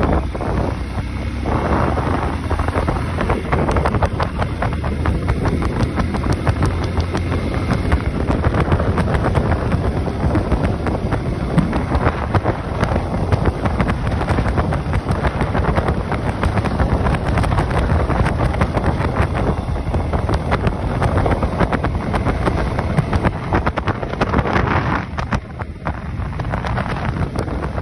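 Motorcycle riding with its engine running under heavy wind buffeting on the microphone.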